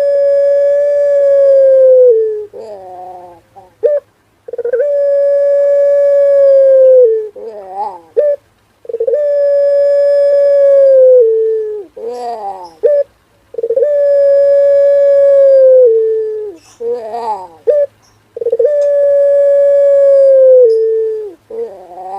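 Male puter pelung, a long-voiced breed of Barbary dove, cooing: five long drawn-out coos, each held steady for about two and a half seconds and dropping in pitch at the end, each followed by a few short falling notes.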